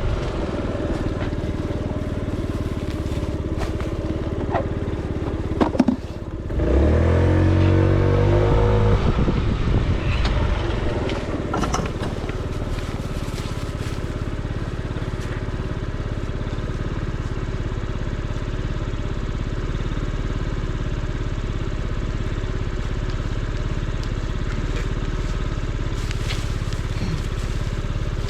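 Small motor scooter engine running under way, with a couple of sharp clicks about six seconds in, then the engine revs up, rising in pitch for a few seconds, and settles back into a steady drone.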